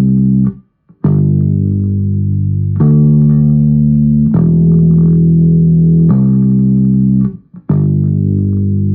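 Bass guitar playing a slow line of single sustained notes, a new note plucked roughly every second and a half, with a brief silence just before the second note.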